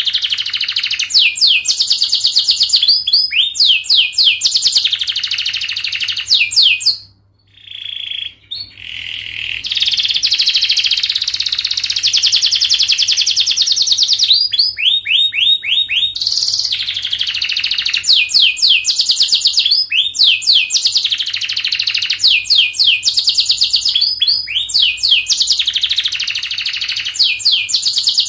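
Domestic canary singing a long, fast song: tightly packed trills and runs of rapidly repeated sweeping notes, with a brief break about seven seconds in before the song picks up again.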